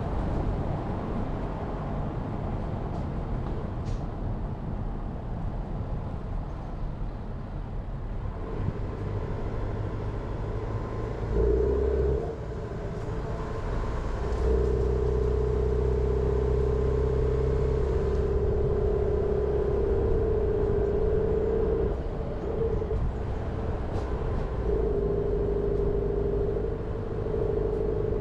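Jeep Renegade on the move: steady road and tyre rumble, with an engine drone that comes in as a steady hum about eight seconds in and grows louder about halfway through.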